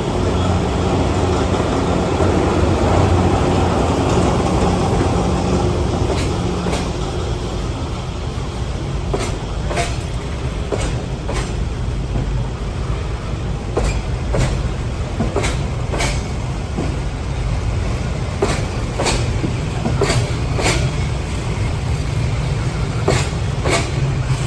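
D9E diesel locomotive passing with its engine running, then the freight wagons rolling by, their wheels clicking over rail joints, often in pairs, above a steady rumble.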